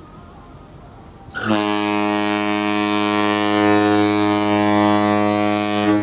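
Emerald Princess cruise ship's horn sounding one long, steady, deep blast of about four and a half seconds, starting about a second and a half in: a fog signal sounded while the ship goes slow in fog and mist.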